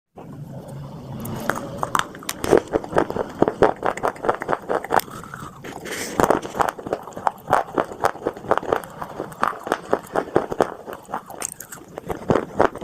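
Close-up biting and crunching of dry edible clay (tin khawa) pieces, with many rapid, irregular crisp crunches as the clay is chewed.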